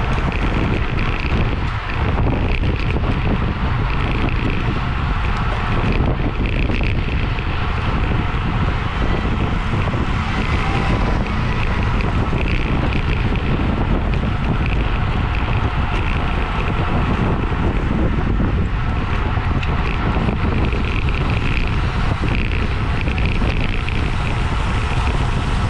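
Steady wind rushing over the microphone of a camera on a racing bicycle ridden at speed.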